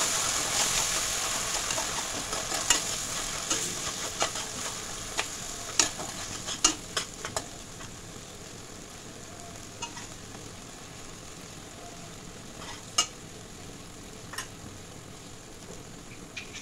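Onion, garlic and green chilli paste sizzling in hot mustard oil in a kadai, the hiss loud at first and dying down over several seconds. A spatula stirring the paste scrapes and clicks against the pan now and then.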